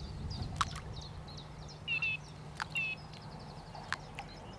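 Small birds chirping and calling, loudest twice in the middle, with a few sharp light plops as loose bait lands on the lake surface.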